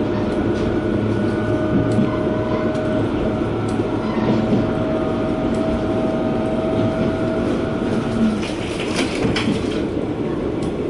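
Interior running noise of a JR Sanko Line KiHa 120 diesel railcar under way, a steady rumble with a thin whine that stops about eight seconds in, followed by a brief hiss.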